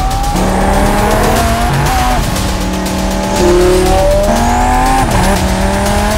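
Twin-turbo Audi R8 V10 engine pulling hard under acceleration. Its pitch climbs steadily and drops back several times as it shifts gears.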